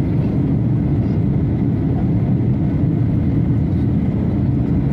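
Airliner cabin noise inside a Boeing 737-800: a steady low rumble of the engines and rushing air.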